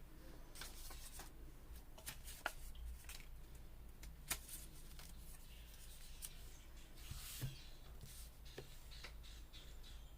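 Quiet rustling and handling of paper pieces, with a few sharp light ticks and taps scattered through.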